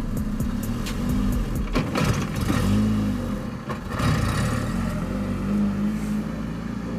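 Nissan 350Z's V6 engine pulling away at low revs under a learner driver, its pitch rising and falling several times as the clutch and throttle are worked unevenly.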